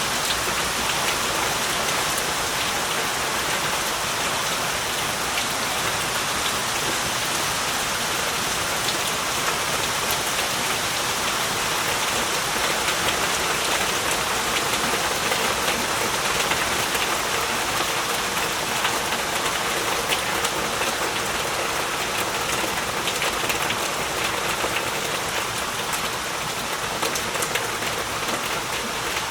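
Heavy rain falling steadily, a dense even hiss with fine drop patter throughout.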